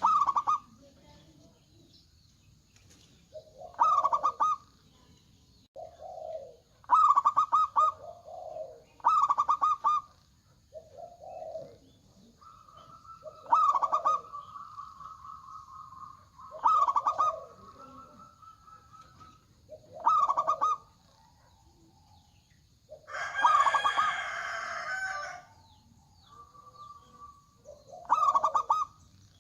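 Zebra doves (perkutut) calling: short runs of rapid, trilled cooing notes repeated every two to three seconds, with two longer drawn-out trills. About 23 seconds in comes a louder, harsher call lasting two or three seconds.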